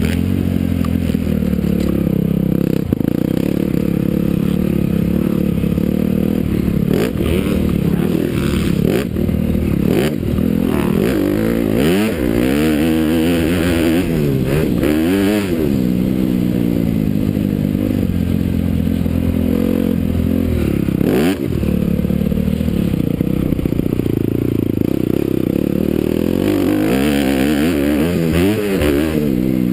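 Honda CRF250R motocross bike's single-cylinder four-stroke engine being ridden hard, revving up and dropping back again and again as the throttle is opened and closed, with a brief dip in the engine note twice.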